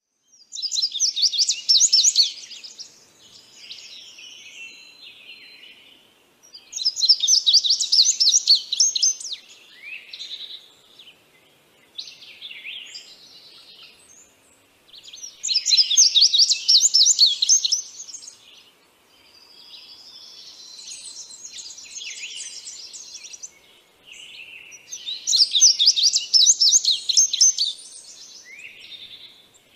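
Songbird singing: a loud, rapid chattering phrase comes four times, about every eight to nine seconds, with softer chirps and short calls in between.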